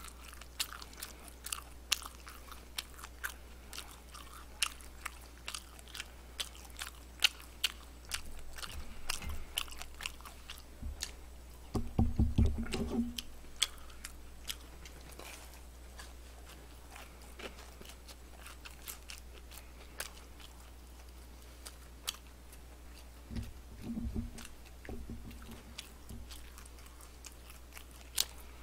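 A person biting and chewing crispy fried chicken: a steady run of sharp crunches. A brief low hum sounds about twelve seconds in, the loudest moment, and again near twenty-four seconds.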